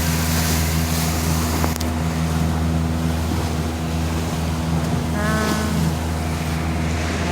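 A glass-bottom tour boat's engine running steadily, a constant low hum under the rush of wind and water.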